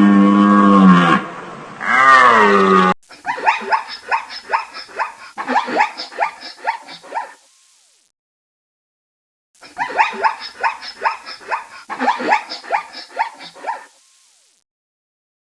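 Animal calls: a long pitched cry that glides down near the start, then rapid runs of short barking calls, about four or five a second, in two bouts with a silent gap between.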